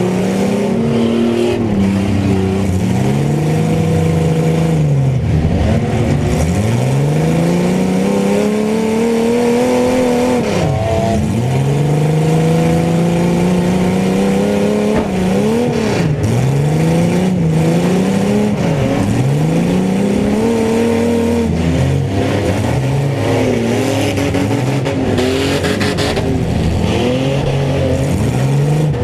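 Mini trucks racing, their engines revving up and dropping off again every few seconds as they run the laps, with several engines overlapping.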